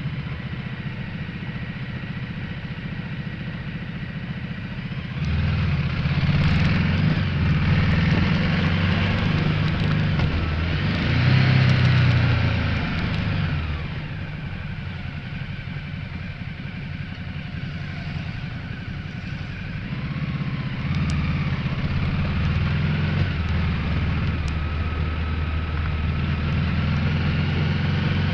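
Ducati Multistrada 1200S's L-twin engine running on a downhill mountain ride, heard from a windshield-mounted camera with wind rush over it. The engine grows louder about five seconds in, drops back around fourteen seconds, and grows louder again about twenty seconds in, as the throttle is opened and closed through the bends.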